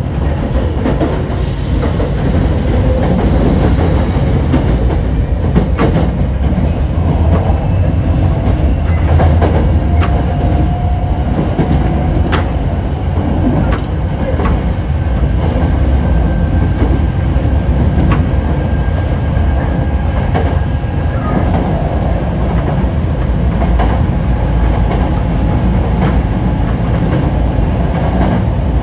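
Hokushin Kyuko train set 7055F running at speed, heard from inside the car: a steady low rumble of wheels on rail with a faint motor whine. Sharp clicks come now and then as the wheels cross rail joints, and a high whine fades away a couple of seconds in.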